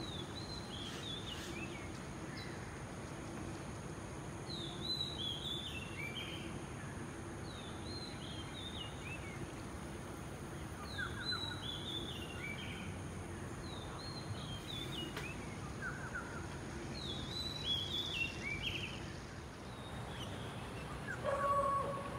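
Outdoor park ambience with a steady low hum. Over it a bird repeats a short phrase of clear notes stepping down in pitch, about every three seconds. Near the end comes a brief louder two-toned call.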